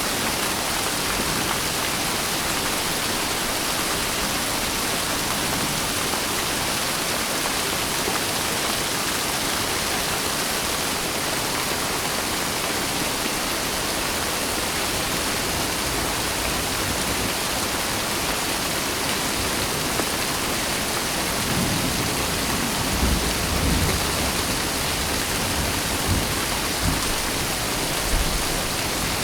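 Steady rain falling, an even hiss. Low rumbles of thunder roll in about three quarters of the way through, with two shorter rumbles near the end.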